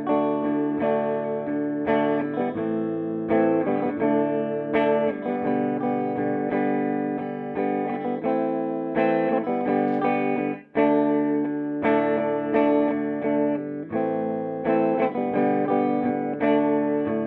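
Electric guitar played clean through a Peavey Bandit 112 solid-state combo amp, clean channel in classic voicing on the high-gain input: picked chords and ringing single notes. The playing breaks off briefly a little past halfway, then carries on.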